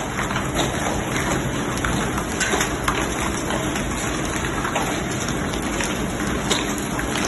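Heavy hailstorm: large hailstones, about golf-ball size, pelting down with rain, a steady dense hiss broken by many sharp individual strikes.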